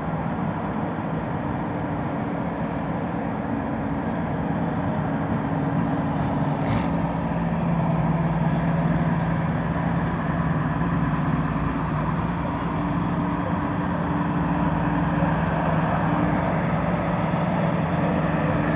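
Scania truck's diesel engine running steadily, getting a little louder a few seconds in.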